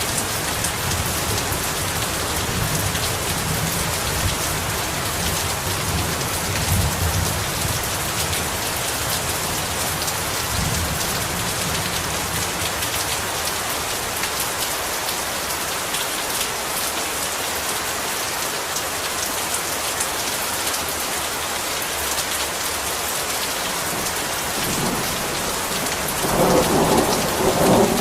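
Heavy rain falling steadily, a dense even hiss. Low thunder rumbles through the first part, and a louder roll of thunder comes near the end.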